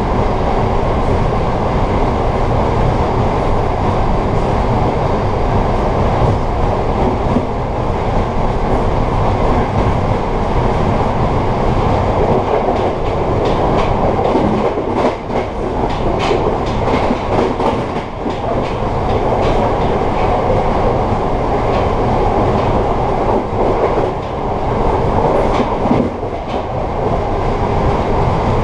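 Amtrak Empire Service passenger train running at speed, heard from inside the rear car: a steady rumble of steel wheels on the rails, with a run of sharp clicks and knocks from the track in the middle.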